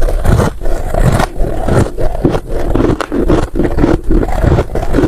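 Freezer frost being chewed: loud crunching bites in quick, irregular succession.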